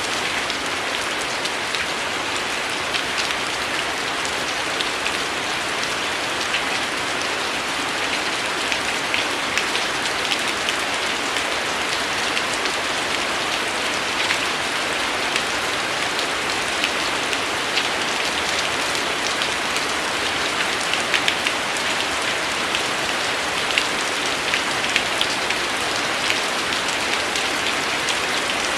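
Steady rain falling on a surface: an even hiss with scattered sharper taps of individual drops throughout.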